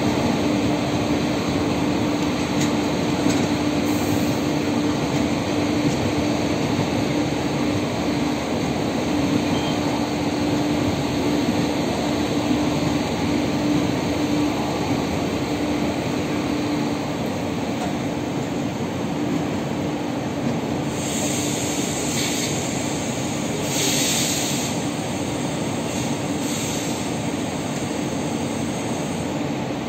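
Passenger train coaches rolling past on the rails, a steady rumble with a steady hum through the first half. Several short, high-pitched wheel squeals come in the last third.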